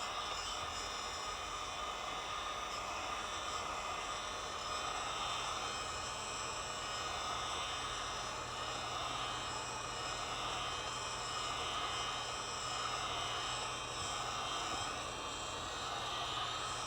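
Steady whoosh of a hot-air blower, such as a heat gun, heating a phone's back glass to soften the adhesive before it is pried off. A low steady hum joins about five seconds in.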